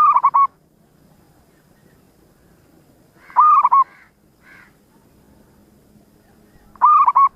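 Zebra dove (perkutut) cooing: three short, pulsing coo phrases about three and a half seconds apart, with a faint extra note after the second.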